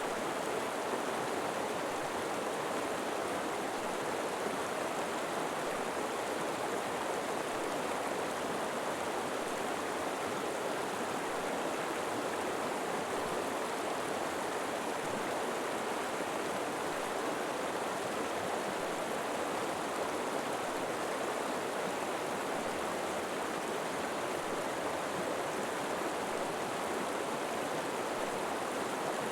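River water flowing over rocks in a steady, even rush with no breaks.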